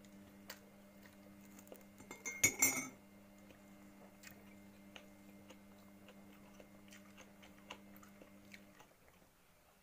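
Faint chewing and mouth sounds of someone eating bread. There is a brief crackle about two and a half seconds in, with a few small clicks, over a steady low electrical hum that stops near the end.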